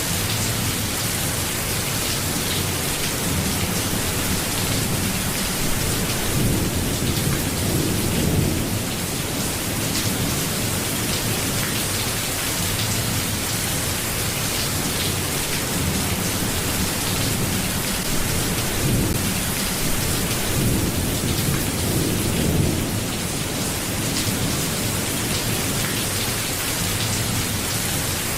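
Steady rain hissing, with low rumbles of thunder swelling up and dying away twice.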